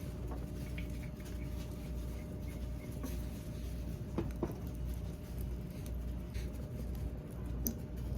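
Wood fire crackling faintly with a few sharper pops, a little after halfway and near the end, over a steady low hum.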